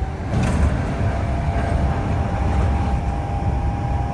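Kintetsu local commuter train running, heard from inside the car: a steady low rumble of wheels on rails with a faint steady tone above it. A brief rushing burst comes about half a second in.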